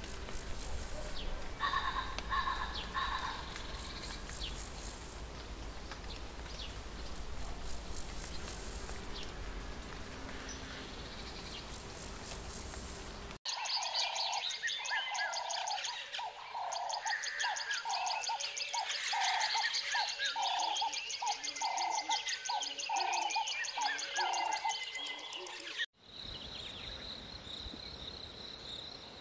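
Wild birds chirping and calling, with the background changing abruptly twice. In the middle a call repeats about once a second among many chirps. Near the end a steady, high insect trill takes over.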